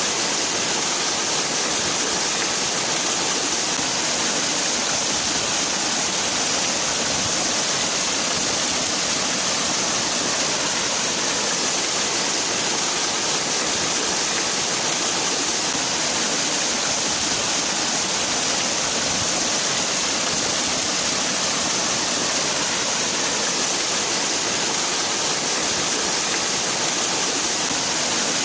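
Water falling and splashing steadily in a continuous rushing hiss, with no breaks or changes.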